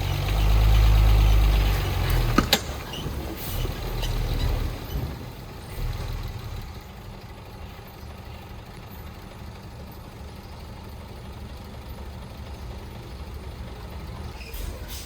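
Heavy diesel machinery engine running, loudest in the first two seconds, then settling to a lower steady rumble, with a single sharp click about two and a half seconds in.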